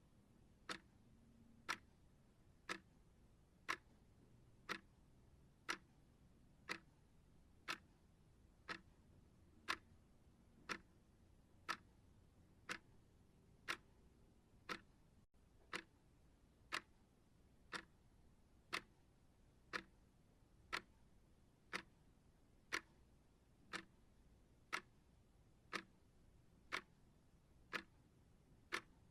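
Clock ticking steadily, one sharp tick each second, over a faint background hiss.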